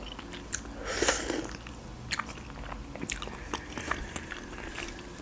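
A person chewing a Georgian khinkali dumpling, close-miked, with short mouth clicks and smacks scattered throughout and the loudest one about a second in.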